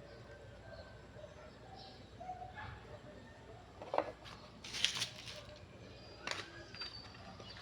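A few sharp clicks or knocks, about four seconds in, near five seconds and past six seconds, over faint short bird calls.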